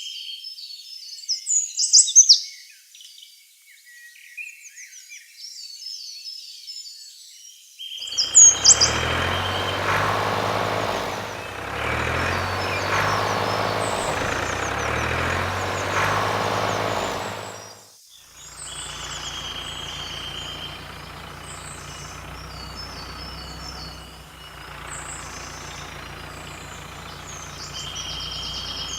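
Birds chirping, joined about eight seconds in by a heavy engine running whose pitch shifts up and down. It stops for a moment, then a steadier engine hum carries on under the birdsong.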